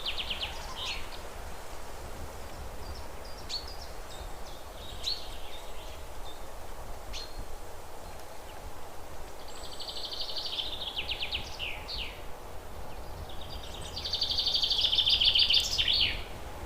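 Wild bird calling: fast rattling trills, each a couple of seconds long, repeated three times and loudest near the end, with a few single short chirps in between. A steady low rumble runs underneath.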